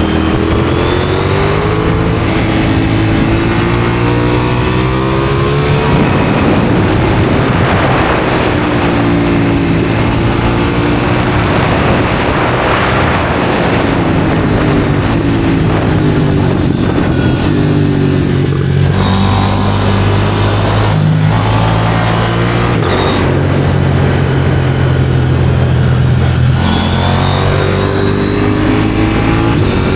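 KTM 790 Duke's parallel-twin engine through an IXRACE aftermarket exhaust, accelerating and shifting through the gears. The pitch rises and falls repeatedly, with quick steps at the gear changes, and wind rushes over the microphone at speed.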